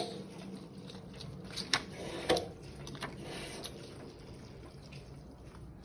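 Water dripping from a water heater's temperature-and-pressure relief valve, a few separate drips over a faint steady background. The valve has leaked drop by drop since it was opened and closed again while draining the heater.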